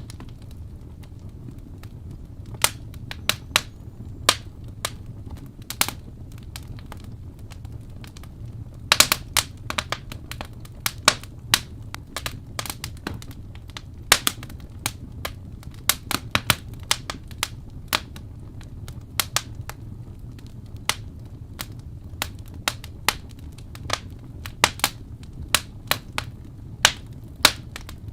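Wood fire burning in a fireplace: sharp, irregular crackles and pops over a low steady rumble, with a quick cluster of pops about nine seconds in.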